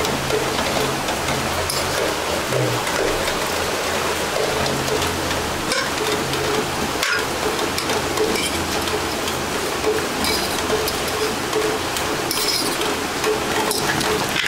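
Steady rain hiss, with a few light clinks.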